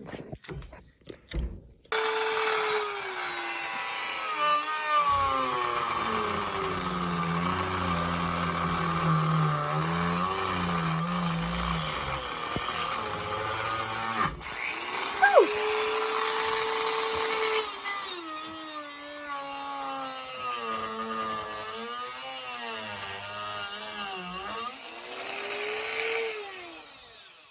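Handheld rotary tool (Dremel) cutting into a pine block, its motor whine sagging in pitch as the bit bites into the wood and recovering as it eases off. It stops briefly about halfway through, spins back up with a rising whine, and runs on until near the end.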